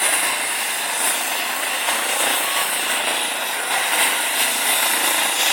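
Helicopter running nearby: a steady, loud rush of rotor and turbine noise.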